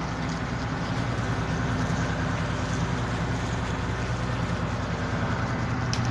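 Boat engine running steadily with an even low hum, cutting off abruptly at the very end.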